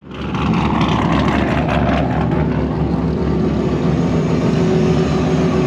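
Car engine running with a steady drone and a dense wash of noise; a sweep falls in pitch during the first two seconds.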